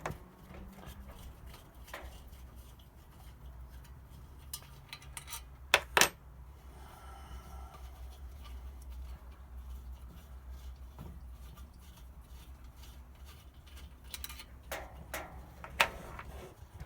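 Small metal screws and an Allen key being handled and set down while a heater casing is taken apart: light metallic clinks, two sharp ones about six seconds in and a few more near the end, over a low steady rumble.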